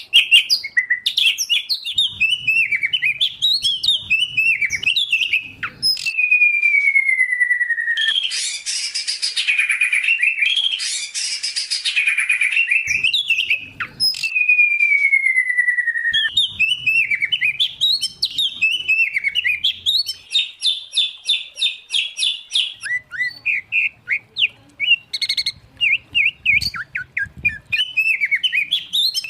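Songbirds of the white-rumped shama, oriental magpie-robin and greater green leafbird mix singing loud, fast, varied whistled phrases. Two long falling whistles stand out, and a harsh rasping burst comes about a third of the way in. A quick rattling trill follows later.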